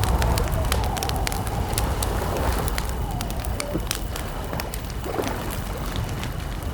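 Wood campfire crackling, with frequent sharp pops over a low steady rush.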